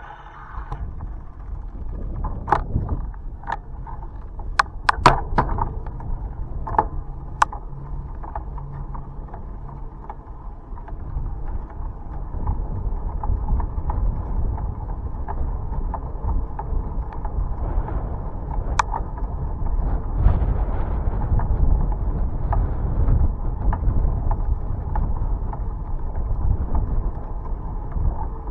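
Bicycle on the move: a steady low rumble of wind on the microphone and tyres, louder in the second half, with scattered sharp clicks and rattles from the bike, several in the first few seconds and one more later.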